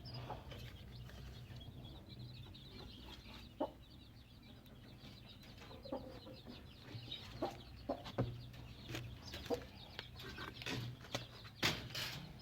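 Chickens clucking: short scattered calls, few at first and more frequent in the second half.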